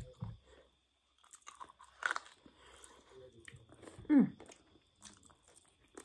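Close-up eating sounds: chewing and biting into chicken, with scattered crunches. About four seconds in there is one short, loud sound that falls steeply in pitch.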